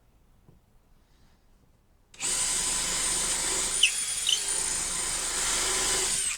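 Power drill running steadily for about four seconds with a high whine, starting about two seconds in and stopping abruptly.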